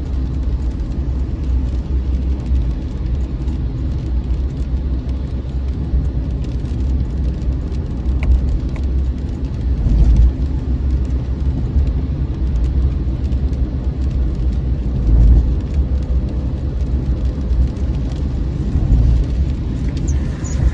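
Car on the move: a steady low rumble of engine and road noise, swelling a little louder a few times.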